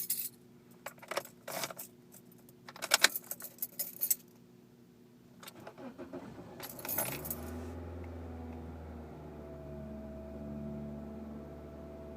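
Car keys jangling and clicking in the ignition, then a brief starter crank as the 2007 Toyota Corolla CE's 1.8-litre four-cylinder catches about seven seconds in. It settles into a steady fast idle whose note steps up about two seconds later: the cold-start idle surge the owner is documenting.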